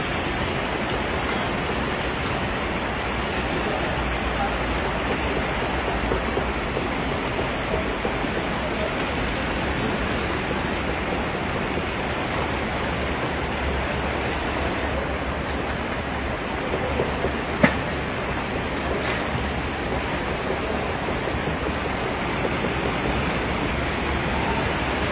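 Steady sizzle of a huge cauldron of plov cooking, with oil, carrots and chickpeas frying and steaming. A single sharp click comes about two-thirds of the way through.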